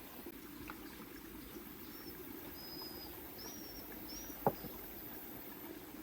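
Faint outdoor ambience: a steady low rushing noise, a few short high chirps in the middle, and one sharp click about four and a half seconds in.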